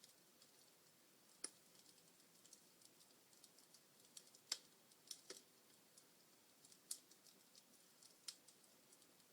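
Wood fire crackling softly in a fireplace: a scatter of faint ticks with about six sharper pops, the loudest about halfway through.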